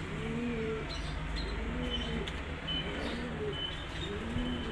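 Pigeon cooing over and over, a low rising-and-falling coo about once a second, with faint high chirps from small birds.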